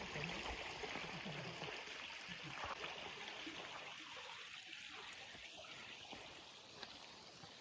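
Running water of a forest stream: a steady rushing hiss that slowly grows fainter.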